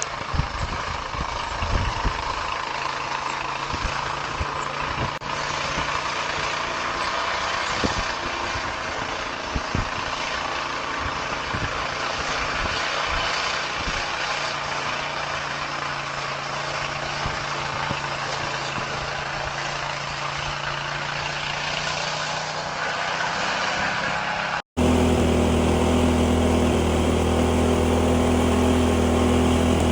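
Snow blower engine running steadily. About 25 seconds in the sound cuts to a louder, deeper steady engine drone.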